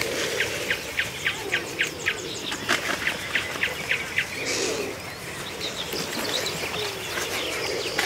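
Birds chirping: a quick run of short, sharp, evenly repeated notes, about three or four a second, for the first half. After that come softer, more varied chirps.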